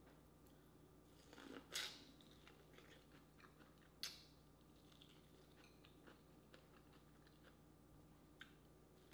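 Someone biting and chewing boiled corn on the cob. Two sharp bites come about 2 and 4 seconds in, with soft wet mouth clicks around them.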